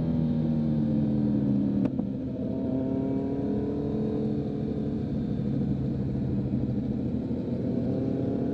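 2023 Kawasaki Z900's inline-four engine through a Leo Vince full exhaust, heard while riding: the engine note falls for about two seconds, a short sharp click follows, and the pitch then climbs slowly as the bike picks up speed again.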